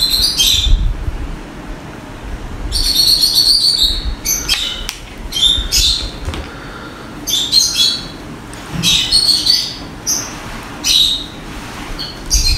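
Small birds chirping in repeated short bursts of high calls.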